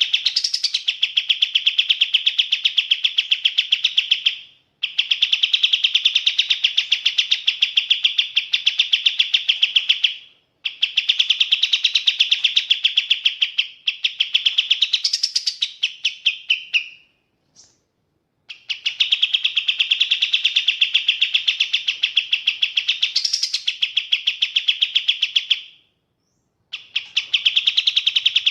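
Kapas tembak songbird singing: runs of several seconds of fast, evenly repeated high chattering notes, broken by short pauses, with a few rising sweeping notes over the top.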